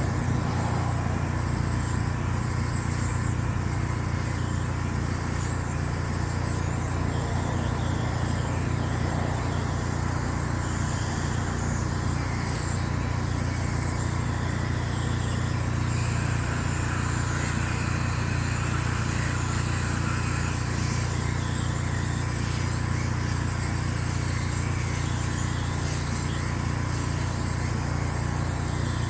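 An engine running steadily, a constant low drone with a thin high whine over it.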